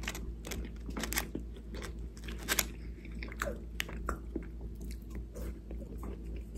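Close-up chewing of cold straight-cut french fries: scattered small crunches and wet mouth clicks.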